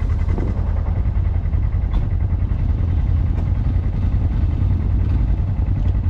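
Polaris Xpedition side-by-side driving on a trail: its engine and drivetrain give a steady low drone, with a few faint knocks or rattles.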